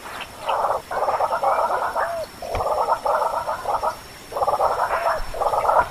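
Animal calls: raspy, rapidly pulsed calls in bursts of about half a second to a second, repeated several times with short pauses between them.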